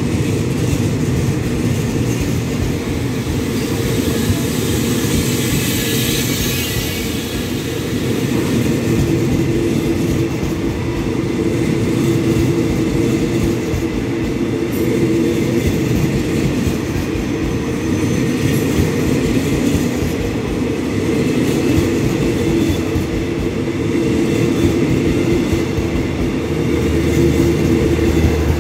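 Passenger coaches of an express train rolling slowly past along the platform: a steady rumble of wheels on the rails, with a low steady hum joining in about nine seconds in.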